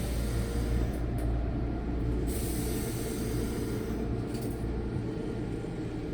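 A stationary electric train humming at the platform, with bursts of compressed air hissing from its air brakes: a short one about a second in, then a longer one lasting about two seconds.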